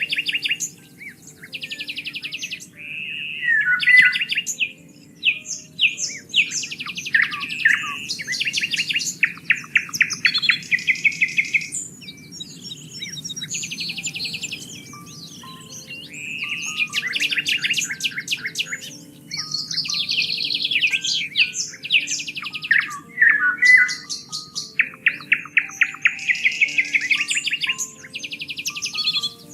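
Songbirds singing in overlapping phrases of fast trills and short chirps, repeated every few seconds, over a low steady background hum. The birdsong eases off for a few seconds around the middle.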